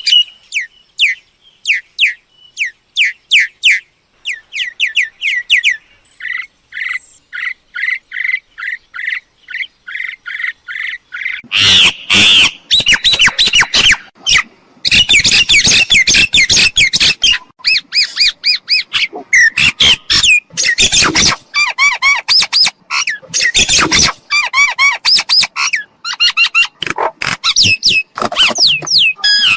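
Myna calls: a string of quick downward whistled notes, then from about 11 s in a loud, dense run of harsh squawks and chattering notes.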